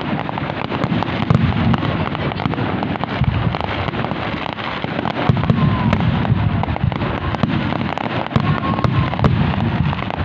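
Fireworks display going off continuously: a dense rapid crackle of sharp cracks over repeated low booms.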